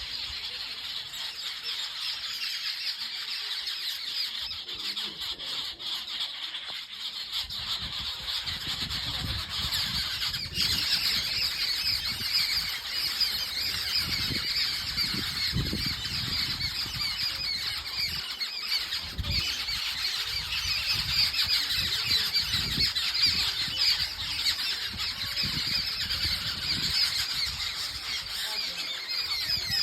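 Dense, steady high-pitched chorus of calling creatures in the countryside, with irregular low rumbling from about seven seconds in.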